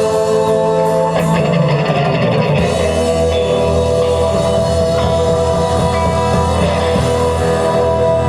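Live rock band playing an instrumental passage: electric guitar and drums over a bass line, with long held chords that change twice in the first few seconds.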